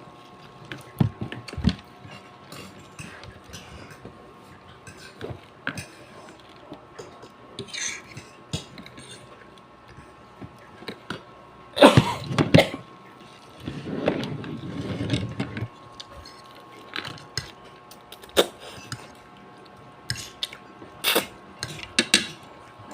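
Spoon and fork clinking and scraping against a plate during eating, in scattered light clicks. There is a louder short burst about halfway through, followed by a longer noisy stretch. A faint steady hum runs underneath.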